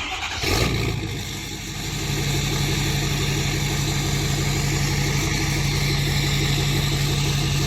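Ford F-250's 6.7 L Power Stroke V8 turbo-diesel starting up for the first time after a DPF and EGR delete, running through a full race exhaust. It fires at once, rises briefly, then settles into a steady idle.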